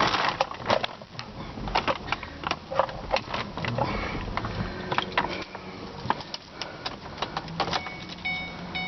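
Irregular clicks and rattles of handling inside a car cabin, with a faint motor hum in the middle. Near the end a car's warning chime starts beeping in short repeated tones.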